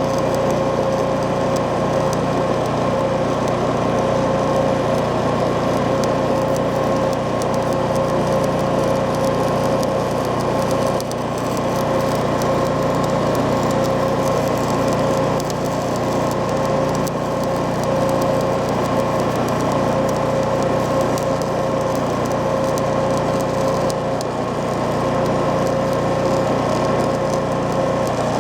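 A machine running steadily with a constant hum over a noisy hiss.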